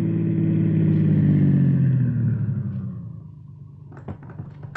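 Sound effect of a taxi's engine slowing, its pitch falling as it pulls up, then a steady low idle. A few sharp clicks come near the end.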